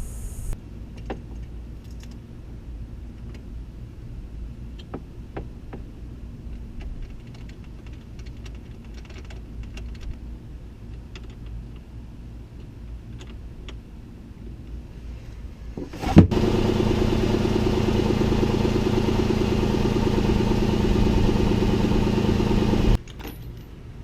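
A low rumble with scattered light ticks, then about 16 seconds in a sharp click and the Chrysler 3.5L V6 engine running loud and steady for about seven seconds before cutting off suddenly.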